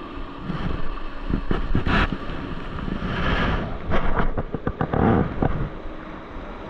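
Strong wind buffeting the microphone over the rush of rough surf, in irregular gusts with crackling bursts about three and five seconds in.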